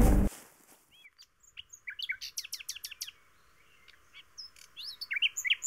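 Birds chirping in quick runs of short, high calls, with a pause in the middle. Background music cuts off abruptly just as it begins.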